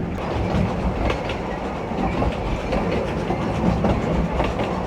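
Narrow-gauge train running on the rails: a steady rumble of the wheels with irregular clicks and clatters from the track.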